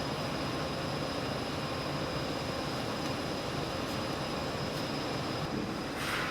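Steady din of button-making factory machinery, with a thin high whine running through it and a short hiss just before the end.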